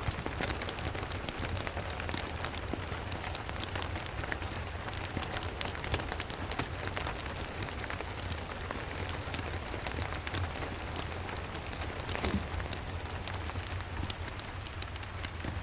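Steady rain falling, a constant hiss with many small scattered drips and ticks, over a low steady rumble.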